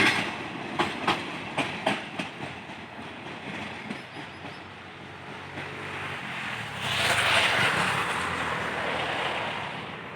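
Train passing: wheels clacking over rail joints in the first couple of seconds, then a steady rushing that swells about seven seconds in and fades away as the train goes by.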